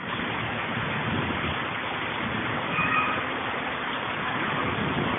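Heavy rain falling in a steady hiss, with a brief faint high tone about three seconds in.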